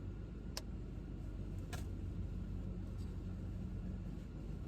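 Steady low background hum, with two faint clicks about a second apart in the first two seconds.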